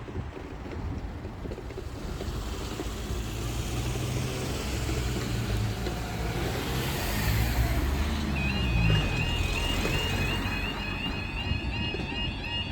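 Road traffic passing over the level crossing, a vehicle's engine loudest about two-thirds of the way through. About eight seconds in, the level crossing's yodel alarm starts sounding, a high warbling tone repeating in quick, even cycles.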